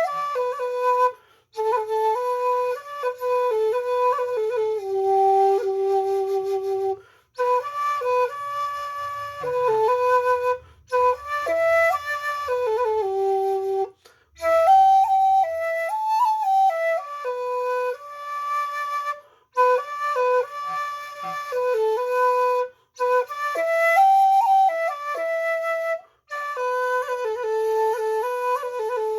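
A 1.6-shaku shakuhachi playing a slow solo melody, one note at a time, in phrases separated by short pauses for breath.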